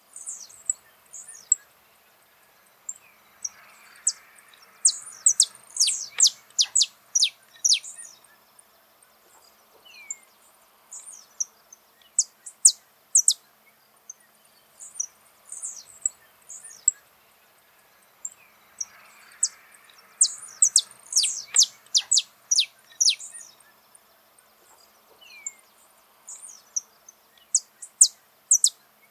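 Saffron finch (canário-da-terra) singing: rapid runs of sharp, high chirping notes in dense bursts with short pauses between, the same song passage coming round again about halfway through.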